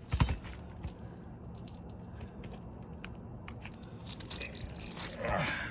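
A sharp knock, then a run of small clicks and crunches from 3-tab asphalt shingles being worked as the nails under them are popped loose, with a louder scraping crunch near the end.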